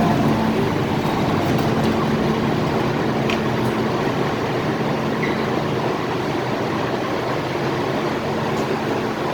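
On-board noise of an MTR Tung Chung line K-stock train (Hyundai Rotem-built): a steady rumble, with a low steady hum that fades out near the end.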